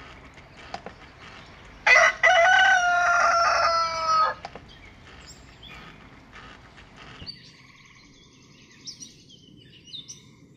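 Rooster crowing once, a single long call of about two and a half seconds starting about two seconds in, its pitch sliding slightly down at the end. Faint small-bird chirps follow.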